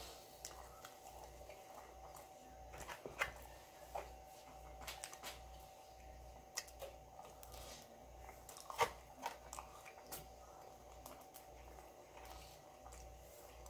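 Close-up eating sounds: a man biting and chewing pieces of a Pizza Hut P'Zone dipped in marinara, with sharp wet mouth clicks and the odd rustle of the plastic sauce cup, the loudest clicks about three and nine seconds in. A faint steady hum sits underneath and stops near the end.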